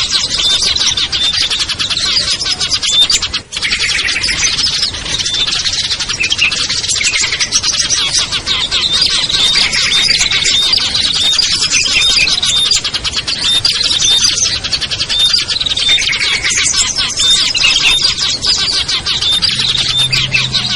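Dense, overlapping chirping and trilling of many small songbirds calling at once, a bird-lure mix of small birds such as prinias and bulbuls. The calls are high and busy throughout, with one brief break about three and a half seconds in.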